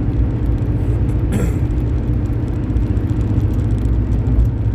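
Steady low rumble of a car on the move, engine and tyre noise heard from inside the cabin, with a brief hiss about a second and a half in.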